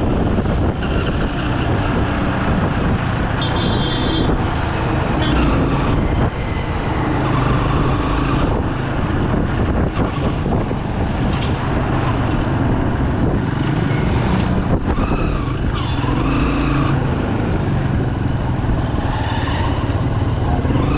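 Bajaj Pulsar 200 single-cylinder motorcycle engine running steadily while riding through traffic, with short higher-pitched tones sounding now and then.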